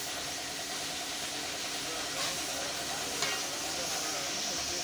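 A steady hiss, with two light clicks about a second apart partway through.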